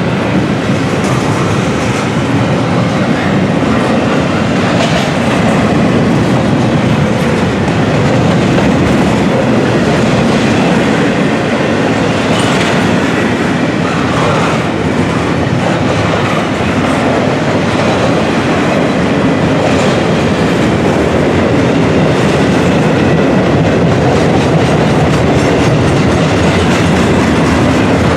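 Intermodal container train rolling past: a loud, steady rumble of steel wheels on the rails with clickety-clack over the rail joints.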